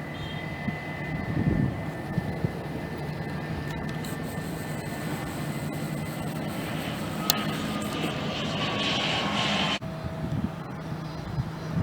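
Jet airliner engines running with a steady rumble and a thin whine, the whine sliding slowly down in pitch late on, before the sound changes suddenly near the end.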